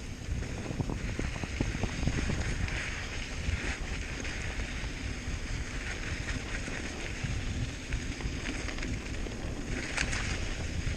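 ALUBIKE hardtail mountain bike riding a dirt trail: wind buffeting the microphone over steady tyre noise, with scattered small knocks and rattles.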